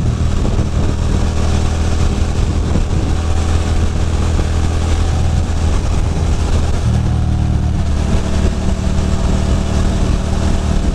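Ducati Monster 620's air-cooled L-twin engine running steadily at road speed under a constant rush of wind noise; the engine note grows stronger about seven seconds in.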